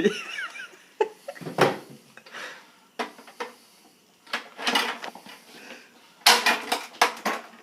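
Sharp clicks, knocks and clattering of plastic parts and tools as a Keurig coffee maker is taken apart, with a dense burst of rattling near the end.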